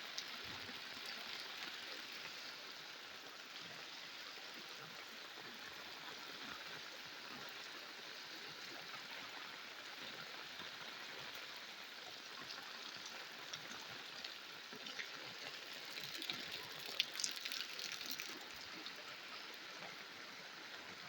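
Steady hiss of rain and running water, with a short cluster of sharper taps about seventeen seconds in.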